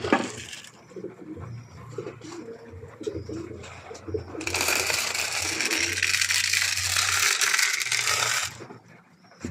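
Loft pigeons cooing in low, repeated calls. From about four and a half seconds in, a loud, even rush of hissing noise runs for about four seconds over the cooing, then stops.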